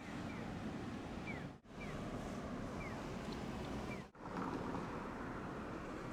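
Steady rushing outdoor noise, broken twice by sudden brief dropouts, with several short, high chirps that fall in pitch.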